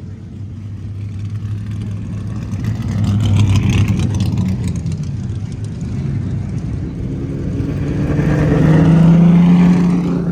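Car engines running nearby: one swells and fades about three to four seconds in, then another climbs in pitch and gets louder near the end, as a car revs or drives past.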